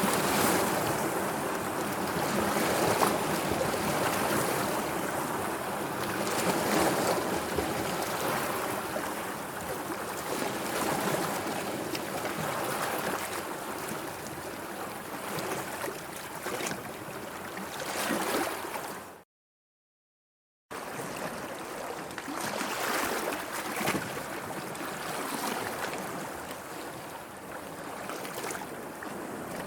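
Sea waves washing and lapping in a steady, swelling wash of water. The sound cuts out completely for about a second and a half about two-thirds of the way through, then resumes.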